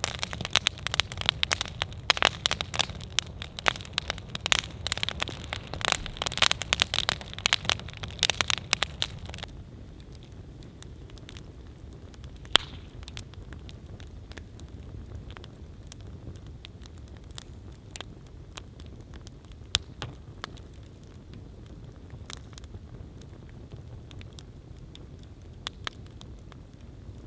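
Wood campfire crackling and popping: dense, rapid crackles for the first nine seconds or so, then it turns quieter, with scattered single pops over a low hiss.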